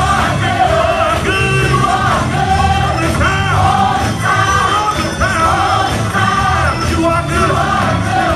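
Loud live gospel music: singing voices over a band with bass and drums, with shouts from the congregation.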